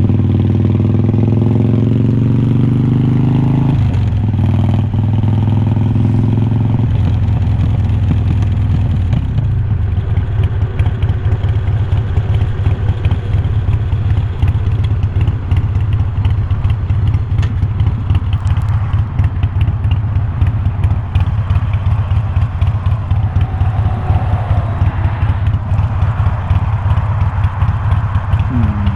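Harley-Davidson Iron 1200's air-cooled V-twin through glass-pack-style slip-on mufflers, rising in pitch as it accelerates, with a brief break about 4 s in and a second rise to about 7 s. Then it drops back to a low, uneven, loping beat for the rest.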